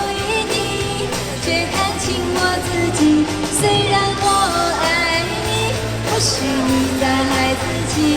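A singer performing a Mandarin pop song over a backing track with a steady beat and bass.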